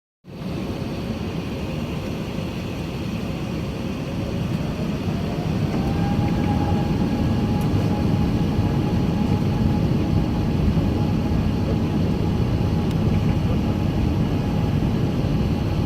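Airbus A380-800 jet engines running with a steady rush that grows louder about five seconds in, while a whine glides up in pitch and then holds: the engines spooling up to takeoff thrust.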